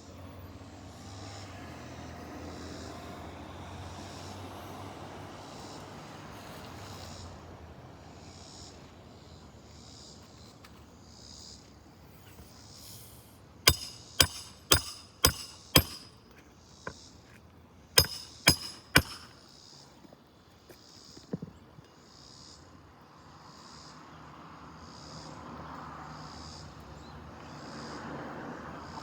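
Hammer driving roofing nails into brittle asphalt shingles: five quick strikes about half a second apart, then three more a couple of seconds later and one lighter tap, each with a short metallic ring.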